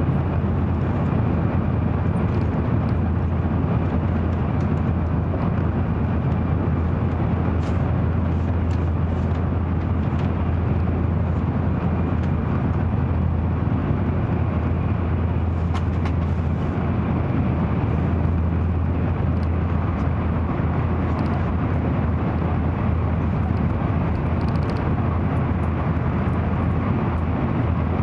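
Steady low rumble of an N700 series Tokaido Shinkansen running, heard from inside the passenger cabin.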